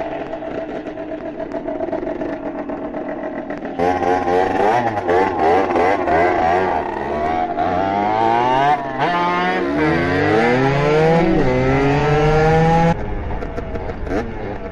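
Small two-stroke motorcycle engine accelerating hard, its pitch climbing and dropping again several times as it shifts up through the gears. It gets louder about four seconds in and falls off sharply near the end as the throttle is closed.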